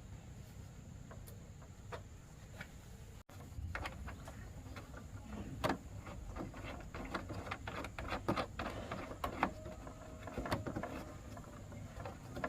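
Irregular light clicks and knocks, as of small metal parts and tools being handled, over a faint low hum. They are sparse at first and come thick and fast from about three seconds in.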